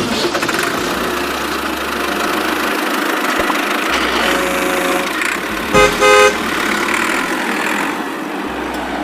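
A horn sounds two short beeps about six seconds in, the loudest sound here, over a steady hissing running noise.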